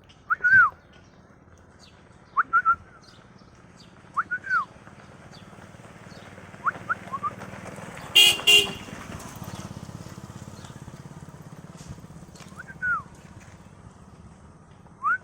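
Pet parrot giving short whistled chirps that arch up and down, one every couple of seconds. About eight seconds in come two short, loud honks, the loudest thing heard, over a low steady hum.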